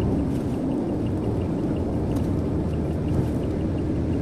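Car cabin noise while driving on a highway: a steady low rumble of engine and tyres on the road. A faint regular ticking sounds about four to five times a second.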